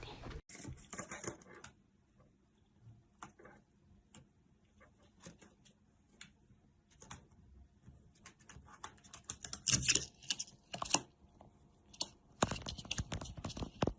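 Irregular light clicks and taps, sparse at first and thickest about ten seconds in and again near the end.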